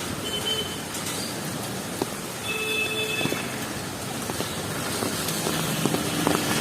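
Street ambience of traffic on a rain-soaked city road: a steady wash of rain and vehicle noise, with brief high tones a few seconds in and a few sharp clicks near the end.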